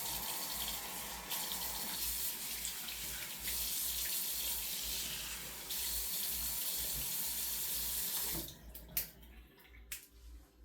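Sink tap running steadily while a face is rinsed, shut off about eight seconds in, followed by a few small knocks.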